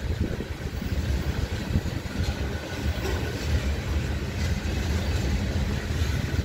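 Covered hopper cars of a freight grain train rolling past on the track: a steady low rumble of steel wheels on rail.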